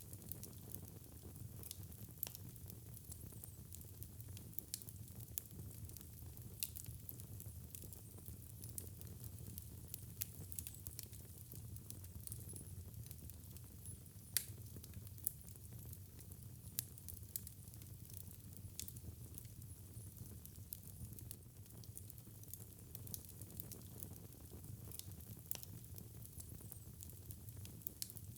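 Wood fire crackling over a steady low rumble of burning, with irregular sharp pops, a few of them louder.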